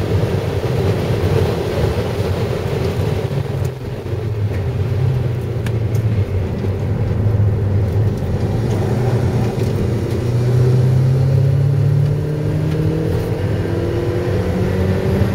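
Car engine and tyre noise heard from inside the cabin while driving hard, the engine note dipping briefly about four seconds in and then climbing in pitch as the car accelerates near the end.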